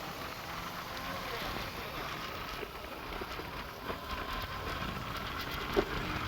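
Motorcycle on the move, its engine low under a steady rush of wind and road noise, with one short sharp knock near the end.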